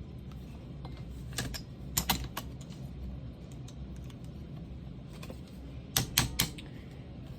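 Light, sharp metal clicks and taps from a pneumatic siding nailer being worked apart by hand to get at a small roll pin: a few scattered clicks in the first half, then three quick ones near the end.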